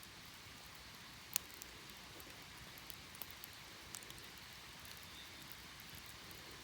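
Wood campfire crackling: a soft steady hiss with scattered sharp pops, the loudest about a second and a half in.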